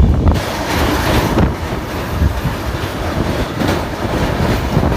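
Passenger train running at speed, its wheels clattering over the rails in a loud, steady rumble, heard through an open carriage window as it crosses a steel truss bridge.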